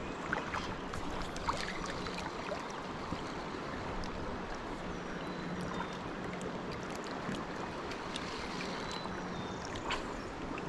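Steady outdoor noise of moving water and wind, with a faint low hum that comes and goes and a few small clicks.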